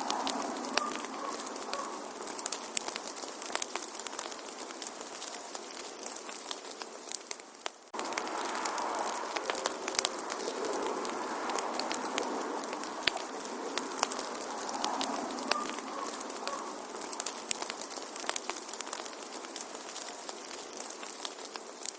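Wood fire burning in a fireplace: a steady soft hiss with frequent sharp crackles and pops. The sound fades briefly just before eight seconds in, then comes back at full level.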